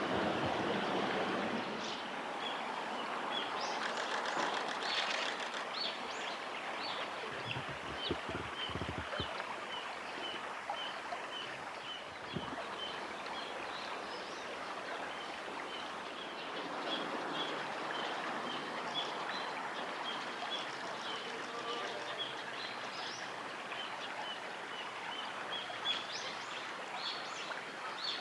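Steady rush of flowing stream water, with a small bird giving short high chirps over and over, about two a second.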